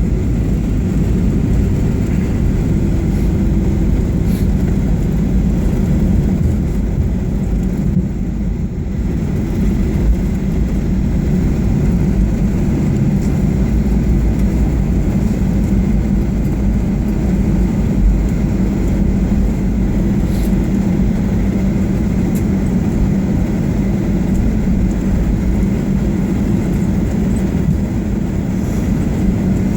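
Steady low rumble of a Boeing 737-800 with its CFM56 engines, heard from on board, with no marked rise or fall.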